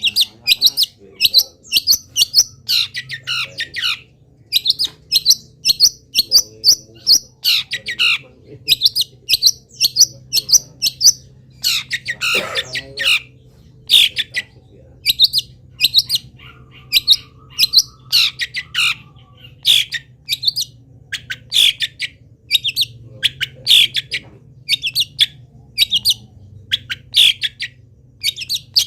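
Long-tailed shrike (cendet) singing nonstop, a rapid stream of short sharp chirps and calls mimicking other wild birds, with one harsher squawk about twelve seconds in.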